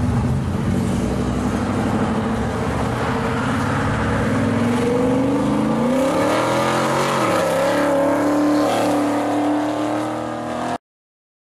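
1966 Chevy II Nova pro street car's engine pulling away and accelerating. Its note climbs from about four seconds in, falls away sharply around seven seconds, then holds steady as the car drives off. The sound cuts off suddenly near the end.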